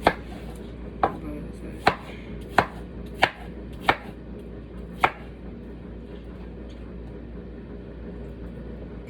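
Kitchen knife chopping a peeled cucumber into chunks on a cutting board: seven sharp chops at an uneven, unhurried pace, stopping about five seconds in.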